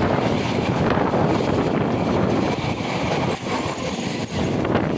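Indian Railways EMU local train running past at close range: a steady, loud rush of wheels on rails and coach running gear, with a few short knocks from wheels crossing rail joints near the end.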